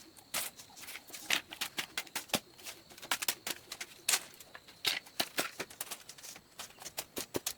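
Irregular sharp clicks and taps, several a second, like small hard objects knocking together during handwork.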